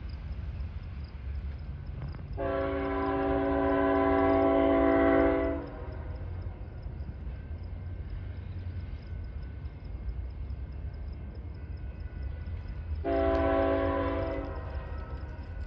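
BNSF locomotive air horn sounding two blasts, a long one about two seconds in and a shorter one near the end, over a steady low rumble.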